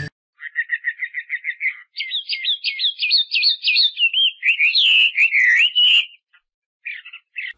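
A songbird singing, a rapid high trill followed by a run of quick chirps and swooping whistled notes. It breaks off about six seconds in, and two short notes follow near the end.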